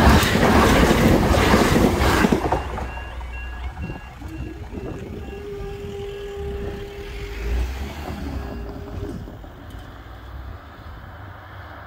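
CrossCountry Class 170 Turbostar diesel multiple unit passing over a level crossing at speed, a loud rush lasting about two and a half seconds. The crossing's alarm tones then fade out, and a steady hum runs for several seconds as the half barriers rise.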